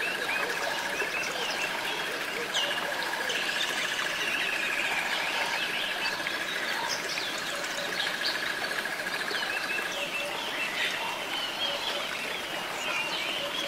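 Woodland birdsong: several birds chirping and calling, with a steady high trill that stops about three-quarters of the way through.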